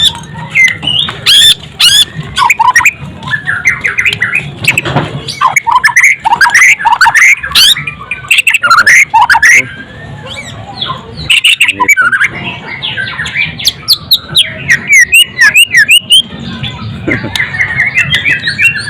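White-rumped shama (murai batu) singing loudly, a fast, varied run of whistled phrases and sharp clicking notes with a short pause around the middle and a falling run of notes near the end.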